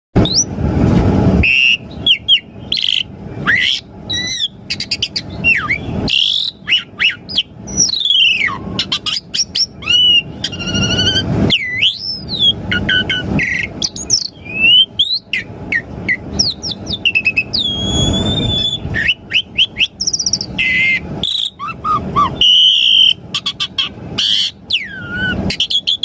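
Asian pied starling (jalak suren) singing a long, varied song: whistled notes sliding up and down and fast trills, broken every few seconds by a second or so of harsh, raspy chatter.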